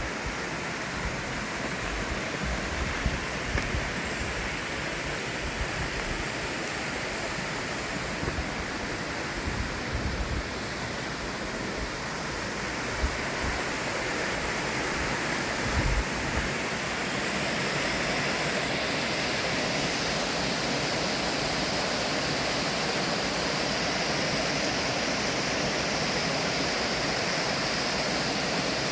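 Lushki waterfall's steady rush of falling water, growing a little louder just past halfway, with a few short low thumps on the microphone.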